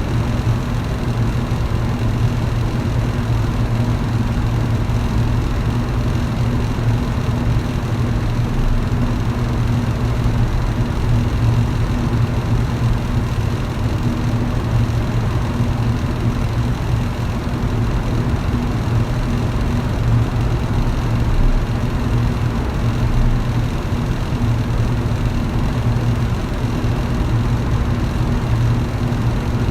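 Electric fan running steadily: a constant low motor hum under an even rush of air.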